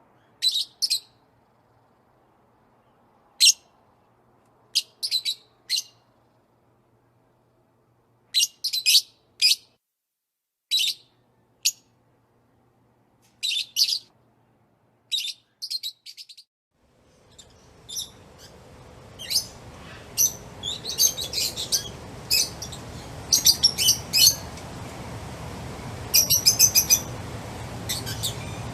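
Small songbirds chirping in short, separate bursts of high chirps with silence between. About halfway through, a steady background hiss of outdoor ambience comes in and the chirping becomes busier and more overlapping.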